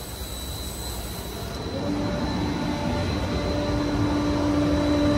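SARMAX Fibertech-S sanding machine running with a steady mechanical noise. About two seconds in, a steady low hum comes in and the sound slowly grows louder.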